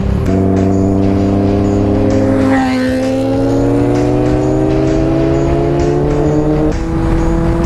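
Motorcycle engine accelerating hard through the gears: the pitch climbs steadily in each gear and drops sharply at upshifts just after the start, about two and a half seconds in, and again near the end. Wind rush runs underneath.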